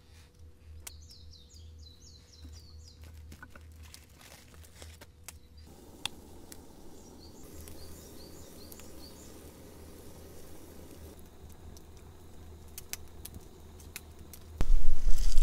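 Quiet outdoor background with a small bird giving a quick run of short chirps twice, and scattered faint clicks. About a second before the end, a loud low rumble starts.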